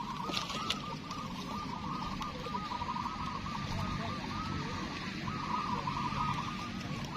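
Many zebra doves (perkutut) cooing at once, a dense overlapping chorus of short, rolling coos with hardly a break.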